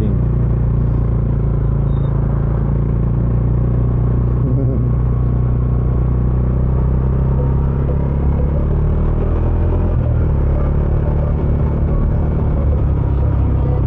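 Bajaj Dominar 400's single-cylinder engine running through its stock exhaust while the motorcycle cruises, a steady low drone recorded from the rider's helmet. The engine note shifts slightly about ten seconds in.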